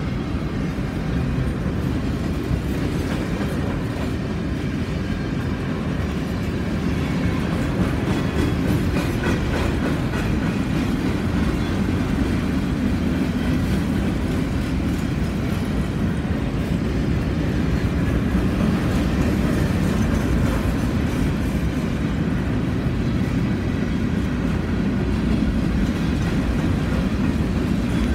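Freight train of covered hopper cars rolling past close by: a steady rumble and clatter of steel wheels on the rails.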